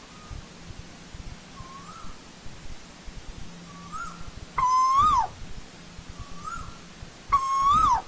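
Asian koel calling: two loud calls about two and a half seconds apart, each a single note held briefly that rises slightly and then drops away at the end, with fainter, shorter similar notes between them.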